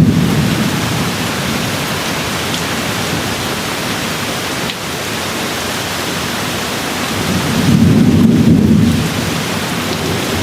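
Steady rain with thunder: a low rumble dying away in the first second, and another rumble building about eight seconds in and lasting about a second.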